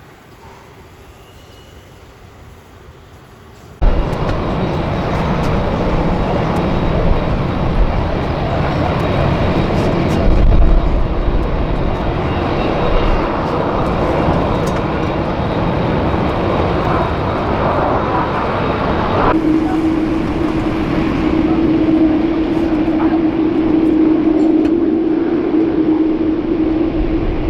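Jet airliner engine noise, loud and rushing, cutting in abruptly about four seconds in after a quieter stretch. About nineteen seconds in it changes sharply and a steady low hum joins it.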